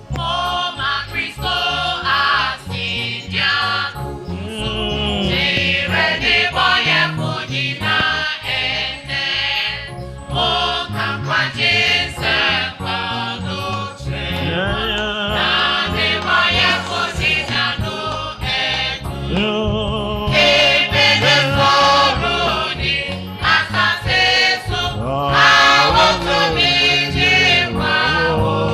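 Gospel music: a choir singing over instrumental backing with a steady beat.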